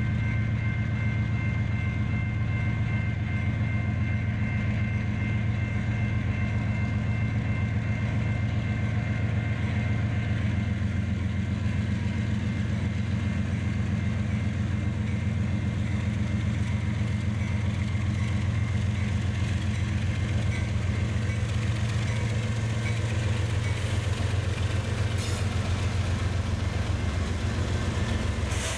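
Freight train rolling past steadily: a constant low rumble of cars on the rails, with a faint steady high whine above it.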